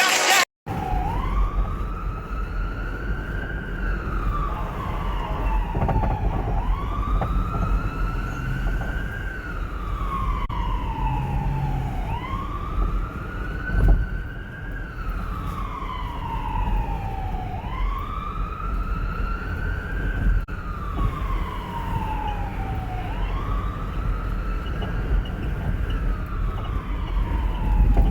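An emergency vehicle siren in a slow wail. Its pitch rises quickly and then falls slowly, about every five to six seconds, over a steady low rumble.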